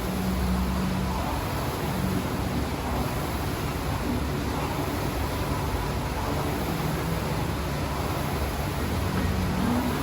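Steady engine running noise: a low hum under an even hiss, with no change in pitch.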